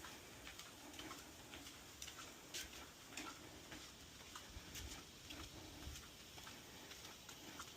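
Faint footsteps at an even walking pace, each step a soft thud with a light tick.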